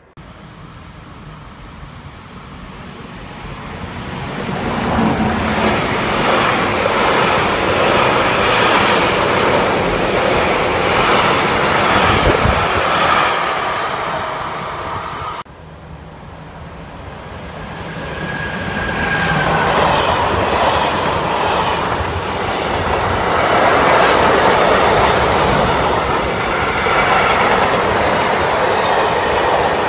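Trains passing on a main line, heard in two separate takes: each time the rumble and wheel noise build up over several seconds to a loud, steady pass with clattering over the rails. The first take cuts off abruptly about halfway through, and the second build-up follows.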